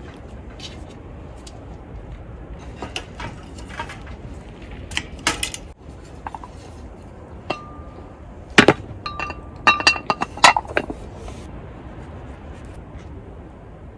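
Dishes and utensils clinking and knocking, scattered sharp clinks with the loudest cluster in the second half, some leaving short ringing tones, over a steady low background noise.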